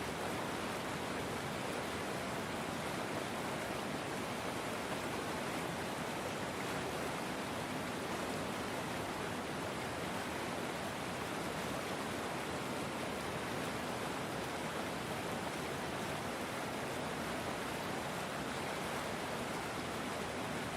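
River water flowing, a steady, even rushing with no change or separate splashes.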